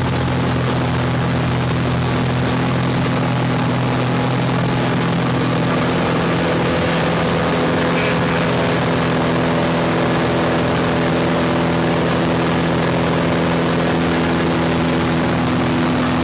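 Light single-engine propeller airplane in flight, its engine and propeller droning steadily at a constant pitch.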